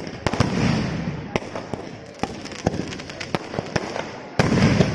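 Aerial fireworks going off: a string of sharp cracks and bangs, with a louder, longer burst just after the start and another near the end.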